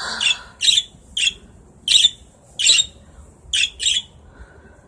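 Pet birds squawking: a quick series of about seven short, sharp, high squawks, roughly one every half second.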